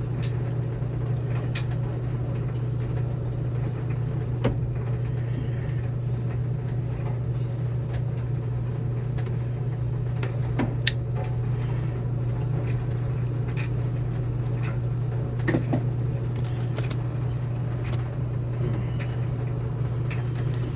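Midea washing machine filling with water on its extra-heavy setting: a steady run of water with a low hum, and a few light clicks scattered through.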